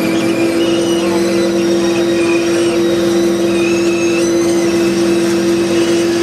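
A vehicle engine running steadily close by, a constant hum with no change in speed.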